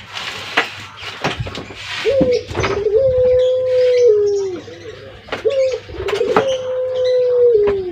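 A dove cooing twice, each time a short note then a long steady note that steps down in pitch near its end. Scattered clicks and scraping of metal work sound around it.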